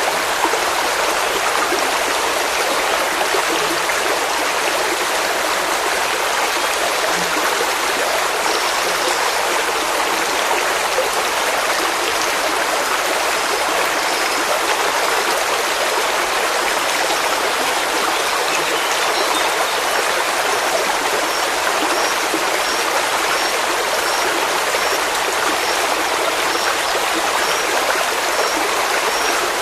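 Water of a stream flowing and splashing in a steady rush. From about the middle on, a faint high chirp repeats roughly once a second.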